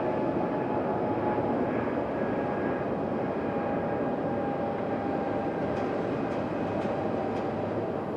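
Jet airliner engines running at a distance: a steady rushing noise with a thin whining tone over it, easing slightly, then cutting off abruptly at the end.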